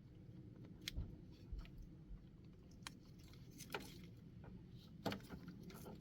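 Faint scattered clicks and handling noises of plastic wiring-harness clips being worked off an old starter wire.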